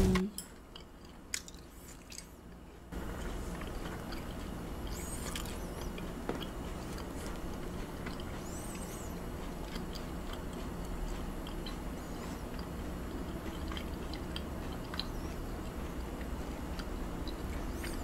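Faint chewing and small mouth sounds, a few soft clicks, over a steady low hum that comes in about three seconds in.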